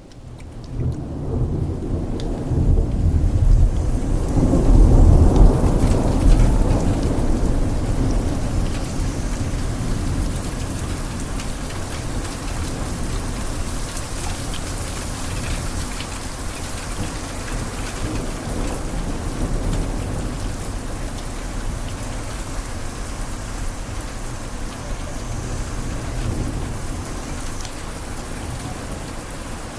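Steady rain on a window pane, fading in at the start, under a low rolling rumble of thunder that swells to its loudest about five seconds in and then settles into a steady background.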